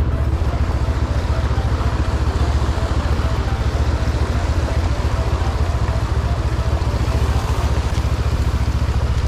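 Benelli 702 parallel-twin motorcycle engine running steadily at low revs, with an even low pulsing.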